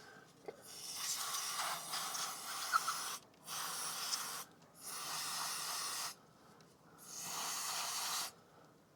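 An aerosol spray can hissing in four bursts, the first and longest about two seconds, the others about one to one and a half seconds each, with short pauses between them.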